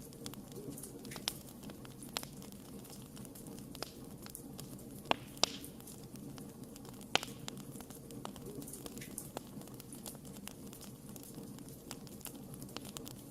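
Wood fire crackling, with irregular snaps and pops over a steady low hiss of burning. A few louder pops come around the middle.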